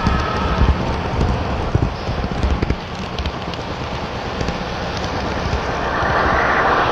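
HO scale model trains running on the layout, with irregular knocks and rattles over the first few seconds, then a steady hiss that grows louder near the end.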